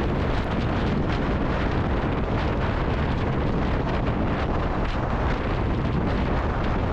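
Steady wind rush on the microphone at highway cruising speed, about 60 to 70 mph, over the even drone of a Kawasaki W800 Cafe's air-cooled parallel-twin engine.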